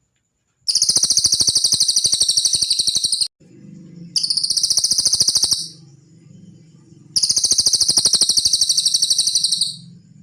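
Cililin song: three bouts of a rapid, high trill of quickly repeated notes, the first and last about two and a half seconds long and the middle one shorter, over a faint low background hum.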